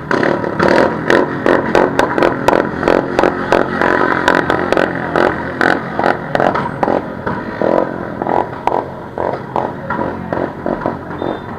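Motorcycle engine held at high revs during a burnout, with a rapid, uneven crackle of sharp pops over the running engine.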